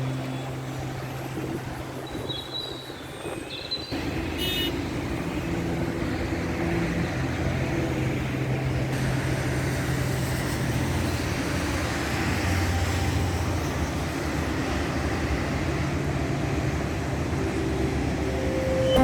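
A motor vehicle running, with steady road noise and a low engine hum that gets louder about four seconds in.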